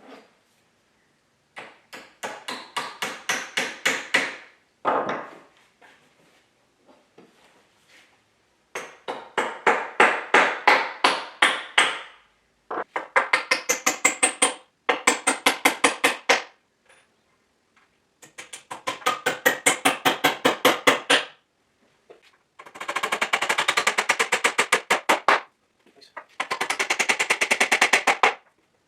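Rapid tapping strikes in bursts of a few seconds, several sharp hits a second, with short pauses between bursts; the last two bursts are faster and denser.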